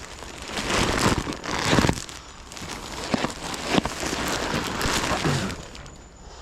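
Rummaging through cardboard boxes and trash by hand: irregular rustling, crinkling and scraping in bursts as things are shoved aside.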